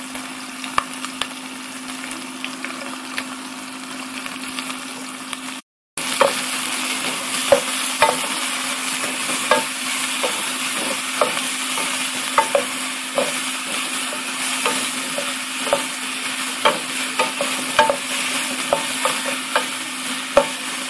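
Sliced calabresa sausage and chopped onion sizzling in oil in an aluminium pot, stirred with a wooden spoon that knocks and scrapes against the pot. The sound drops out for a moment about six seconds in, then the sizzle comes back louder with frequent spoon knocks.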